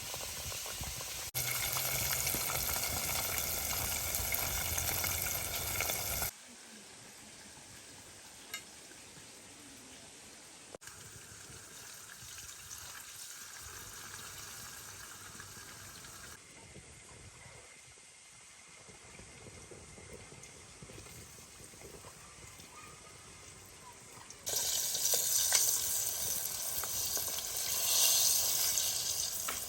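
Food sizzling in a pan, with stirring, in several short cut-together clips: two louder stretches of steady hiss, near the start and near the end, with quieter cooking sounds between.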